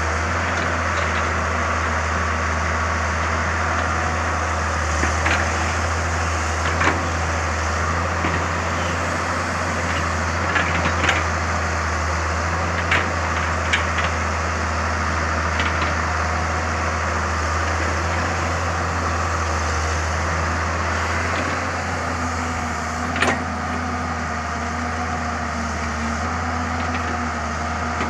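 Samsung excavator's diesel engine running steadily under load, with scattered sharp knocks, one standing out near the end.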